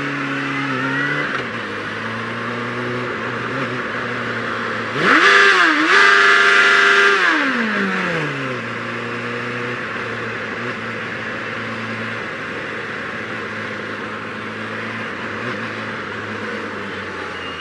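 Motorcycle engine running at a steady cruise under wind noise. About five seconds in it revs up and gets louder, holds there for a couple of seconds, then the revs fall away and it settles back to a steady cruise.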